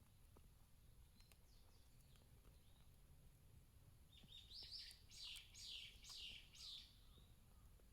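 A wild songbird singing faintly: a few soft high notes, then, about halfway through, a short run of six or seven clear high notes, each sweeping downward.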